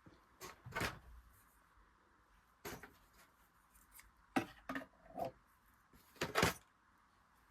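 Scattered light clicks and rustles, about seven of them, from hands handling a thread-wound bobbin and thread at a sewing machine.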